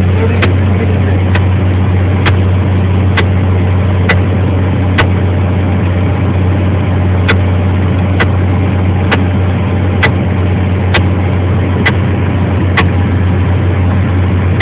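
Cessna 172's engine and propeller giving a steady low drone in the cockpit, with a sharp tick about once a second.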